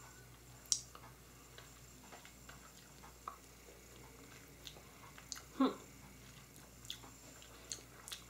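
A person chewing a thick chunk of candied quince preserves: faint, scattered wet mouth clicks and smacks, with one longer, louder mouth sound a little past halfway.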